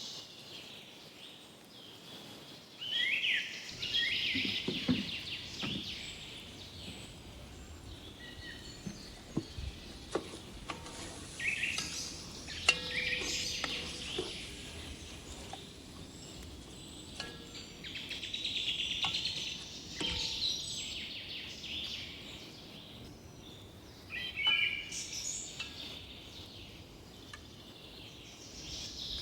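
Small birds chirping and trilling in bursts every few seconds, some calls sliding down in pitch, over a steady background hiss. A few sharp clicks or taps, the loudest about twelve seconds in.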